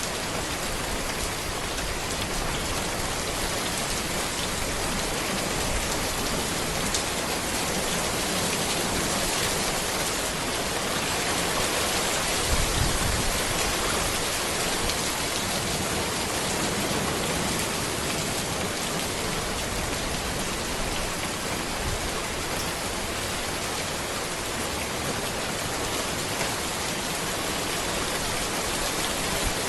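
Steady rain falling on a road, an even hiss of drops that swells a little about halfway through.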